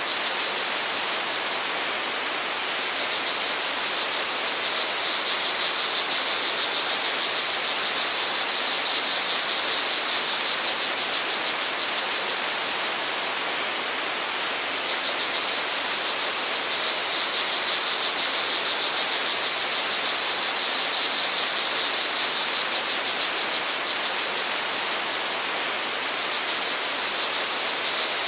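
Steady rush of flowing water from a stream or waterfall, with a high, fast-pulsing cricket trill over it that swells and fades several times.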